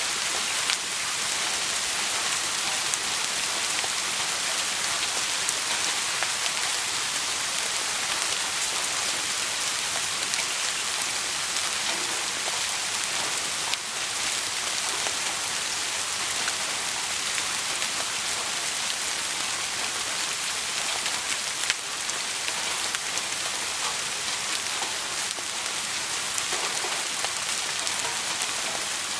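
Steady rain falling, an even hiss with scattered sharp ticks, a few louder ones standing out.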